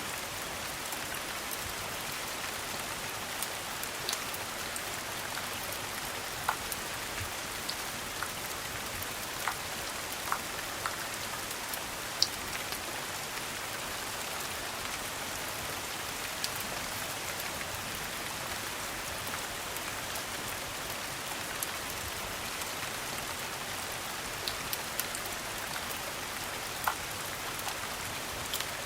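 Steady rain as an even hiss, with occasional sharp ticks every few seconds.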